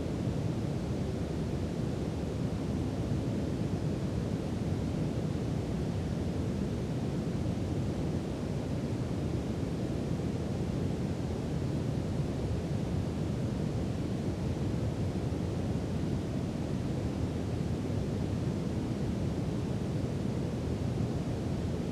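Steady brown noise: a deep, even hiss-rumble with most of its energy in the low end, unchanging throughout.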